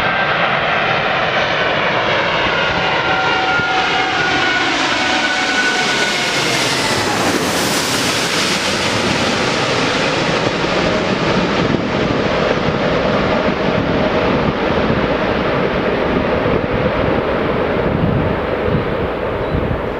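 Jet airliner passing close on its landing approach: the engines' whine slides down in pitch as it goes by, leaving a steady roar.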